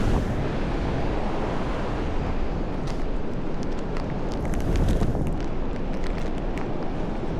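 Wind buffeting the microphone over the steady wash of ocean surf, with a few faint sharp ticks in the middle.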